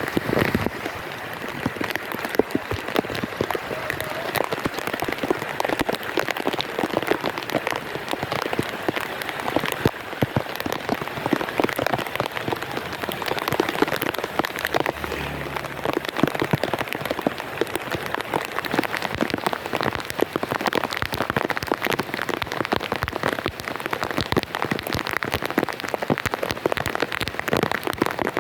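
Heavy rain pelting down on a hard surface in a storm, a dense, steady patter of countless drops.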